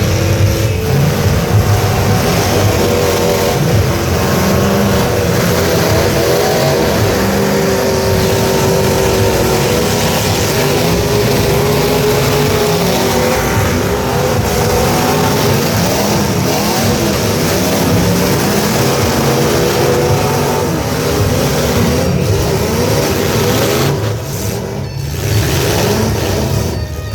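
Several demolition-derby truck engines running and revving at once, their pitches rising and falling over one another. The sound eases off slightly about three seconds before the end.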